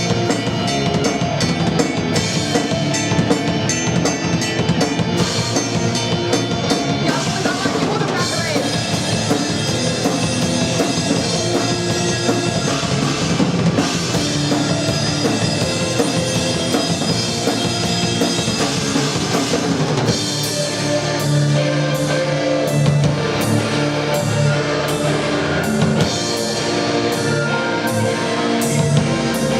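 Live alternative rock band playing, with a full drum kit (bass drum, snare, cymbals) driving under guitars and bass.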